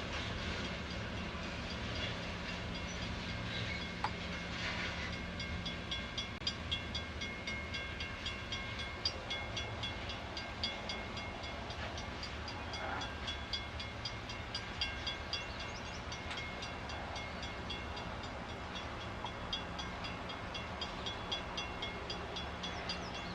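Covered hopper cars of a freight train rolling past: a steady rumble of wheels on rail, with a fast, even high-pitched ticking through the middle stretch.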